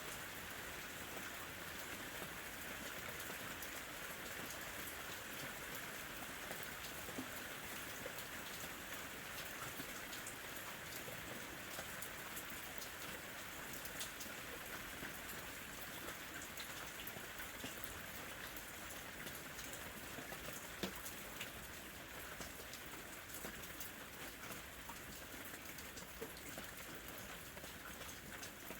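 Steady light rain falling, an even hiss dotted with many small separate drop ticks.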